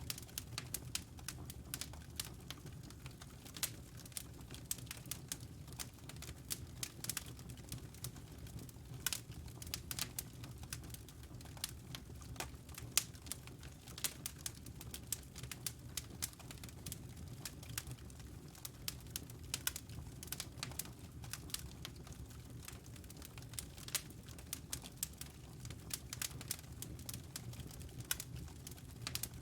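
Fire crackling in a fireplace: a steady stream of irregular sharp snaps and pops over a low, even rumble of the flames.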